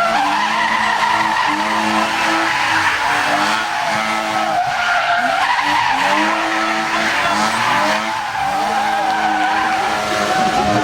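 Drift car sliding through a corner, tyres squealing while the engine is revved hard, its pitch climbing and dropping again and again.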